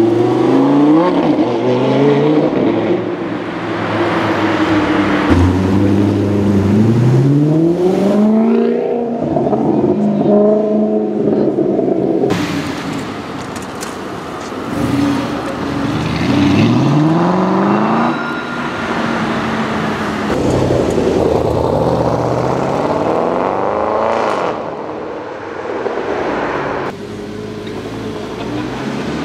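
Supercar engines, including Lamborghini Gallardo V10s, accelerating hard past in a run of short clips, the pitch climbing through each gear and dropping at the shifts.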